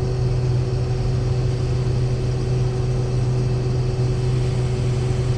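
Case 2388 combine's diesel engine and threshing machinery running with a steady, even drone, with the unloading auger engaged for its first unload.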